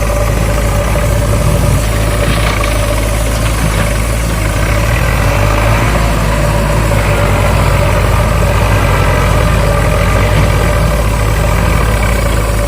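An engine running steadily at idle, a constant low hum with a steady tone above it.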